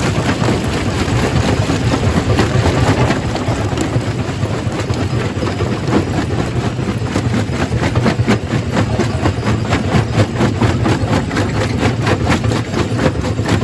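Quarry primary rock crusher running: a steady heavy machine drone under a continual clatter of knocks as rock is broken, the knocks coming thicker in the second half.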